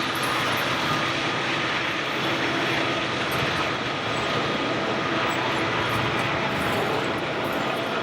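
Union Pacific intermodal freight train rolling past: a steady rushing rumble with a faint steady whine.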